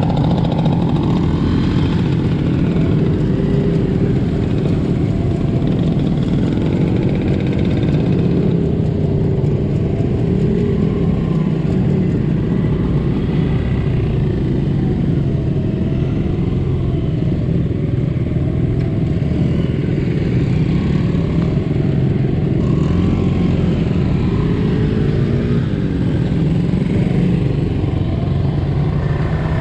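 Small single-cylinder four-stroke motorcycle engine of a 1972 Honda CL100 running steadily under way, its pitch rising and falling with the throttle.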